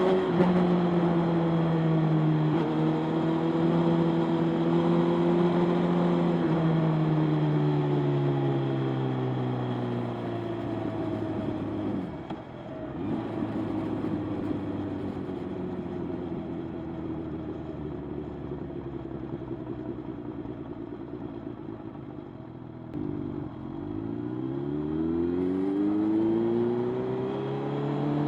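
Motorcycle engine running steadily, then falling in pitch as the bike slows. It runs low for about ten seconds, then rises again as it accelerates near the end.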